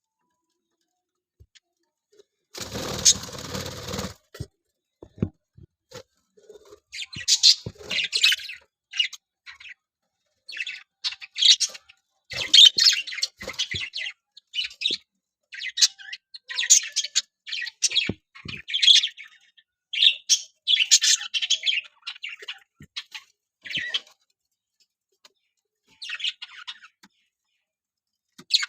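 Budgerigars chirping and chattering in quick bursts of short, high calls, with a short burst of noise about three seconds in.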